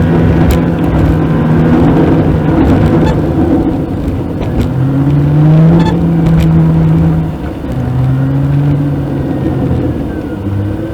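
Car engine running, its pitch rising and dropping back several times as if accelerating through gear changes, over steady road rumble.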